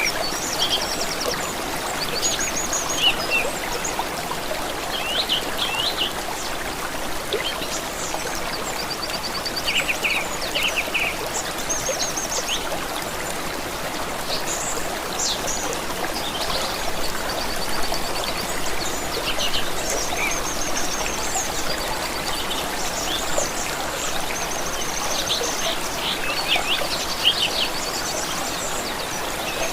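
Flowing stream water with a steady babble, and songbirds singing and chirping over it in short trills and notes throughout.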